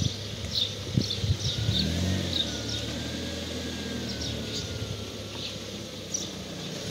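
Peugeot 405 engine idling steadily, with a few knocks about a second in, and short bird chirps throughout.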